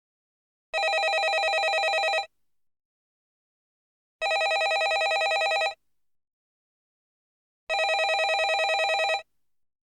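Landline telephone ringing in a regular cadence: three rings of about a second and a half each, with about two seconds of silence between them.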